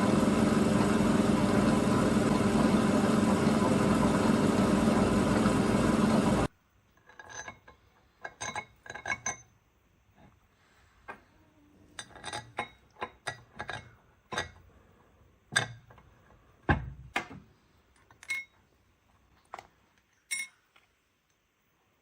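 A loud steady machine noise that cuts off abruptly about six seconds in. It is followed by scattered metallic clinks and knocks of bolts, nuts and tools as a cylinder head is fastened to a lathe faceplate.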